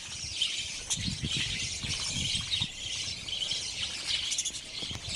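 A colony of budgerigars chirping and chattering continuously, many birds at once, with faint low knocks underneath.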